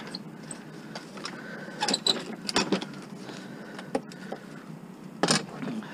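A few scattered knocks and clinks over a steady low background, with the loudest clatter near the end.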